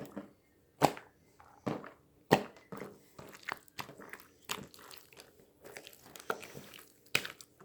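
A series of crisp crunches and clicks: a few loud, separate ones in the first two and a half seconds, then softer, quicker crackles.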